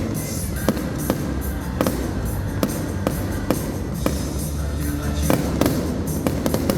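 Fireworks bursting and crackling over loud music with a steady beat of a bit over two strikes a second.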